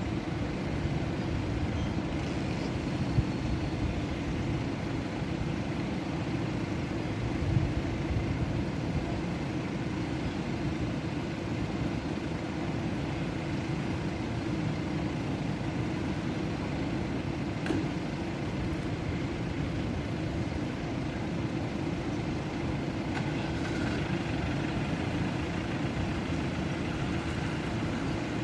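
Vehicle engine idling: a steady low rumble, with a few faint knocks.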